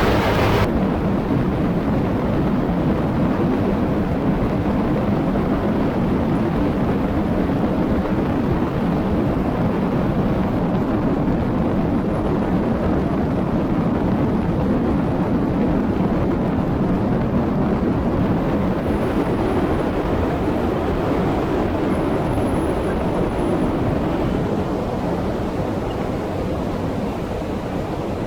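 Light aircraft engine and propeller of a Rans S7-S Courier running steadily, with rushing air noise. The sound eases slightly quieter over the last few seconds.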